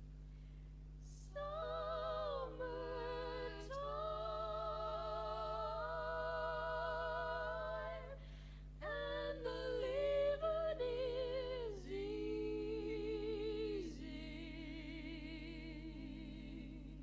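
Music: a single high voice sings slow, long held notes with vibrato, with a short pause about eight seconds in. A steady low hum sits underneath.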